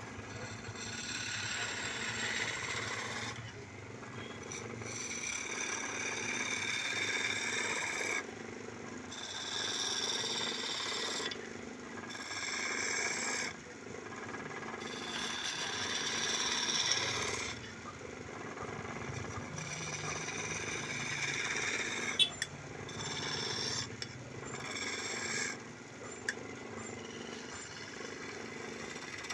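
Wood lathe running with a steady motor hum while a turning tool cuts the spinning wood in repeated scraping passes of one to three seconds each, with short breaks between them and a few sharp clicks.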